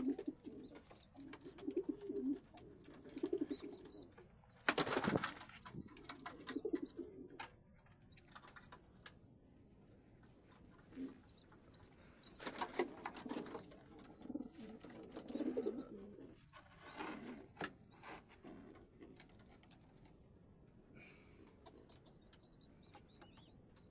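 Homing pigeons cooing in low, pulsing phrases, with bursts of wing flapping about five seconds in, again around twelve seconds and near seventeen seconds. A steady high tone runs underneath.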